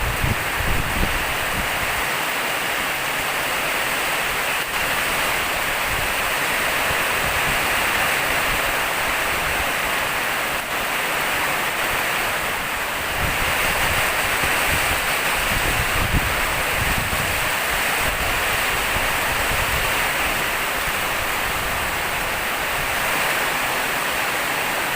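Heavy rain pouring steadily in a windstorm, with gusts of wind buffeting the microphone, stronger for a few seconds past the middle.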